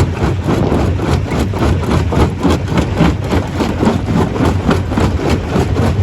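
Stone crusher running under load, crushing rock: a steady machine hum with dense, irregular knocks and cracks of stone breaking.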